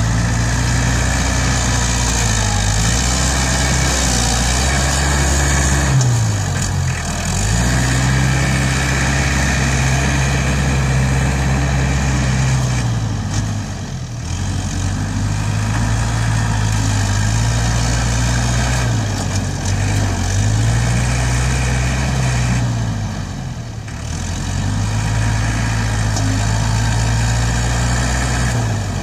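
ISEKI NT554 tractor's diesel engine running steadily while pushing soil. Its note sags and recovers about four times as the load comes on and eases off.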